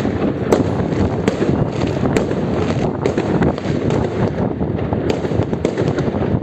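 Fireworks going off all around: a dense, continuous din of many distant bursts, with separate sharp bangs standing out about once a second.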